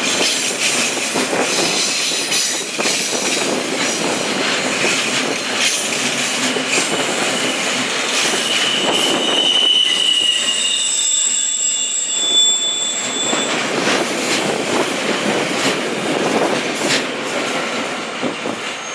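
Loaded double-deck car-transporter wagons of a freight train rolling past close by on a curve, wheels clicking over the rail joints. A thin, high wheel squeal from the curve comes in about halfway through, and the sound eases near the end as the last wagon goes by.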